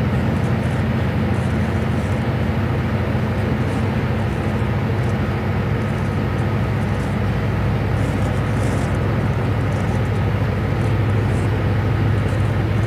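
Train running with a steady low rumble and hum, unchanging in loudness.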